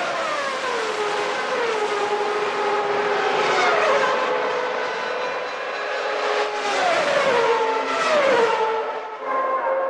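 1991 Formula One cars with naturally aspirated 3.5-litre engines at high revs, several going by one after another. Each engine note falls in pitch as it passes.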